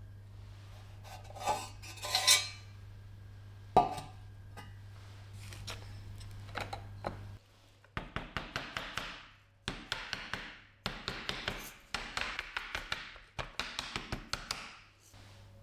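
Small hard parts clinking and knocking a few times, then from about halfway a run of short bursts of rapid strokes, each lasting about a second, as the grinder's parts are worked on by hand.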